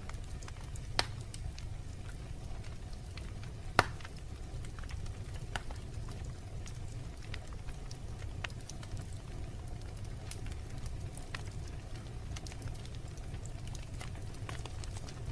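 Wood fire burning in a fireplace: a steady low rumble of flame with scattered crackles and pops, two sharper snaps about a second in and near four seconds in.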